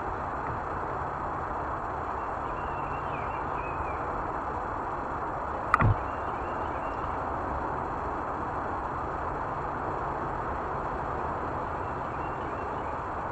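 Steady rushing noise of riding a fat-tire e-bike: wind on the microphone and tyres rolling, with one brief sharp clack a little before halfway.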